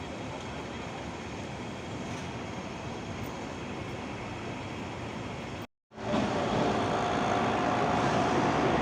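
Hong Kong tram running, a steady rumble of the ride. It breaks off abruptly for a moment just under six seconds in, then returns louder with a faint steady whine.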